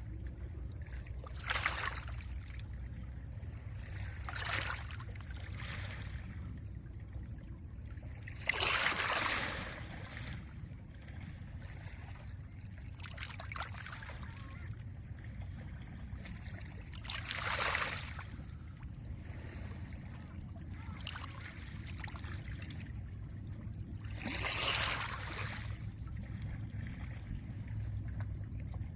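Small lake waves breaking and washing over a pebble beach, each wash a hissing surge of a second or two that comes every few seconds at an uneven pace, the loudest about nine seconds in. A steady low rumble of wind and open water runs underneath.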